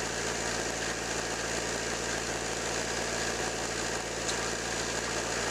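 Toyota 2L four-cylinder diesel engine idling steadily, a fast even clatter over a low hum.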